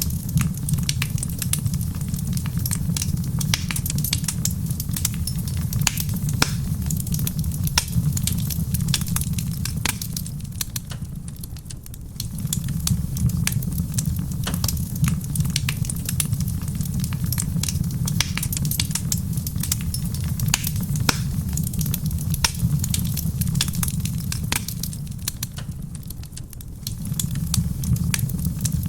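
Wood fire crackling in a stone fireplace, with many small sharp pops over a low steady rumble that fades briefly twice.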